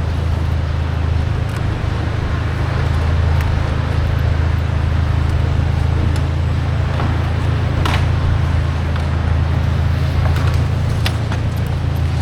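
A vehicle engine running steadily at idle, with a few sharp knocks over it.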